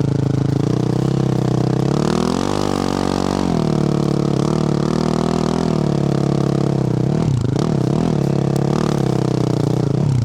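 2024 Yamaha YZ450F's single-cylinder four-stroke engine with a Yoshimura RS-12 exhaust, running under way, close to the exhaust. The revs rise and fall once a little over two seconds in, then go quickly up and down a few times with the throttle about three quarters of the way through.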